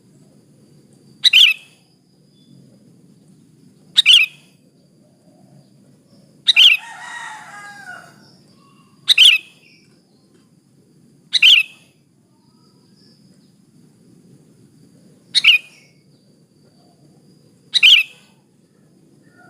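Sooty-headed bulbul (kutilang) female calls used as a lure to stir a male: seven short, sharp calls, two to four seconds apart, the third running on into a brief warbled phrase.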